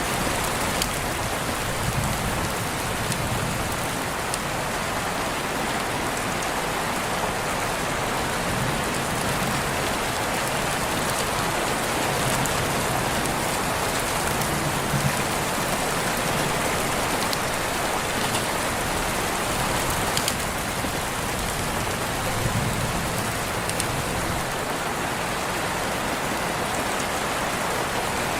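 Steady rain falling, with scattered drops pattering on surfaces.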